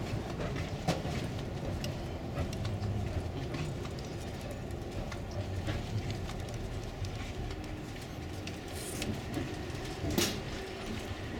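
Running noise inside a moving Amtrak Superliner sleeping car: a steady low rumble with scattered clicks and knocks, one louder knock about ten seconds in.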